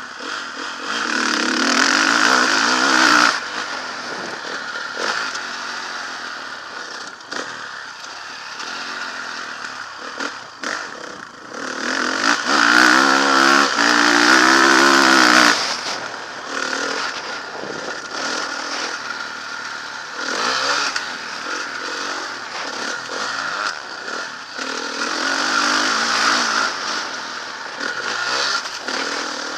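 Motocross bike engine revving hard and easing off as it is ridden round a track. The first loud throttle pull comes about a second in, and a longer, louder one with rising pitch comes about twelve seconds in; the engine runs at lower revs in between and near the end.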